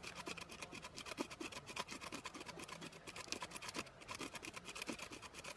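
Dry birch bark being scraped or shredded by hand: rapid, irregular dry scratches, several a second.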